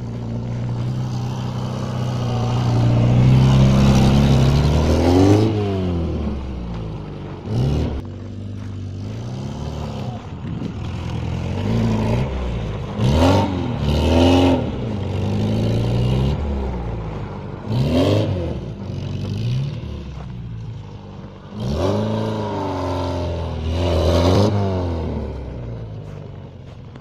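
VAZ 2106's four-cylinder engine revved hard in repeated bursts, the pitch climbing and dropping again and again as the car is drifted on snow.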